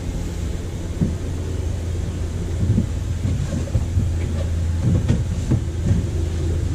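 Water running into a bass boat's live well, a steady low rumble with a few scattered knocks as the well is wiped down.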